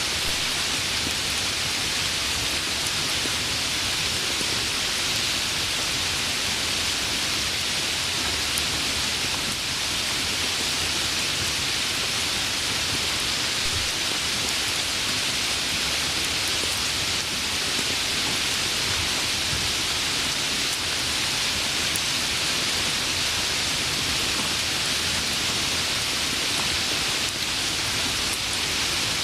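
Steady rain falling, an even, unbroken hiss with no distinct drops or thunder standing out.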